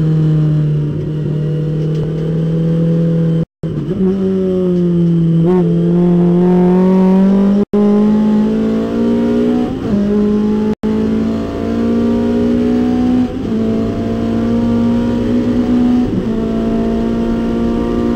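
Datsun 510 race car's engine heard from inside the cabin, accelerating in fifth gear: its pitch dips slightly near the start, then climbs steadily as the car gains speed. The sound cuts out for a split second three times.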